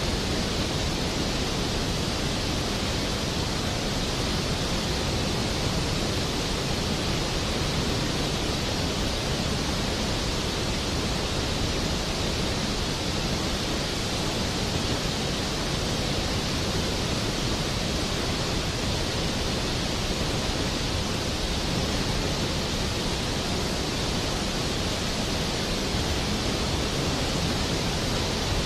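Steady heavy rain: an even, unbroken hiss with no thunder claps.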